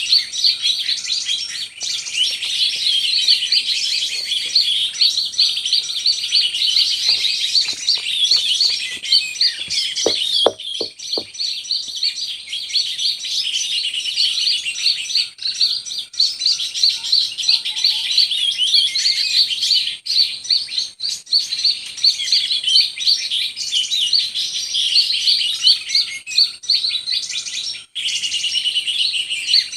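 Dense, rapid bird chirping and twittering that goes on without a break, with a few short knocks about ten seconds in.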